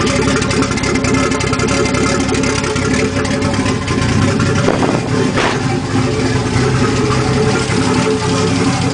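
Nissan RB25DET S2 turbocharged straight-six idling roughly on its first start, running through an open 3-inch downpipe, with valvetrain noise in the mix; the idle wavers briefly about five seconds in. The owner thinks the rough idle comes from the unchipped stock engine computer.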